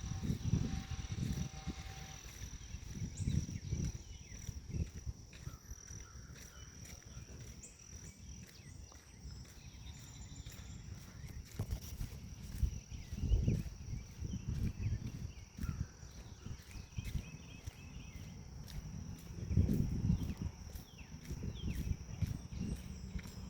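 Forest insects calling without a break: a steady high trill with a fast, even pulsing above it, and a few faint bird chirps. Clusters of low thumps and rumbles come and go four times.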